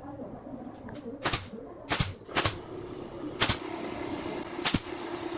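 Five sharp, irregularly spaced knocks from woodworking work, struck over a steady low hum.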